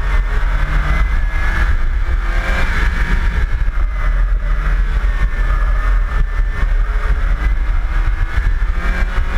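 Mazda Miata's four-cylinder engine with a Racing Beat exhaust driven hard, revving up and easing off between cones, over a heavy, constant low rumble.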